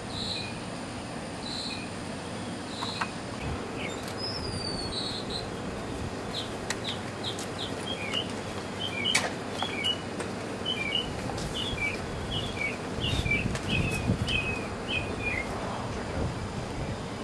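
A songbird singing a long run of short, high chirping notes, about two a second, starting a few seconds in and stopping shortly before the end. There is a steady low background hum, with a few sharp clicks and knocks scattered through.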